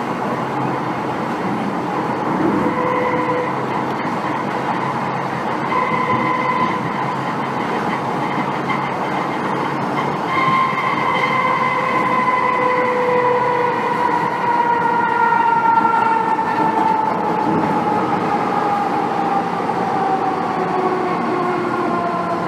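MTR Tsuen Wan Line M-Train heard from inside the car while running, with a pitched howl from the traction equipment that, from about ten seconds in, falls slowly and steadily in pitch as the train slows, typical of its electric braking into a station. The rumble of the wheels on the track runs underneath.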